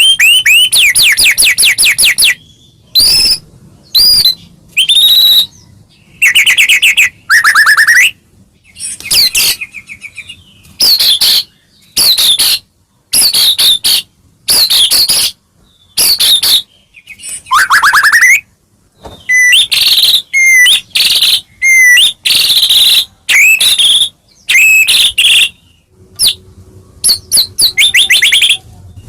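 White-rumped shama (murai batu) singing loudly and without let-up. A long run of varied phrases, fast rattling trills and sweeping whistles, follow one another with short pauses between them.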